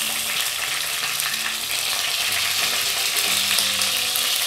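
Chicken pieces sizzling steadily as they shallow-fry in hot oil in a nonstick pan, while a silicone spatula turns and lifts them. The chicken is browned and crisp, ready to come out of the oil.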